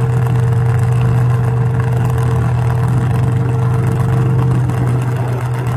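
Demolition derby car engines running at a steady idle, a loud, even low drone.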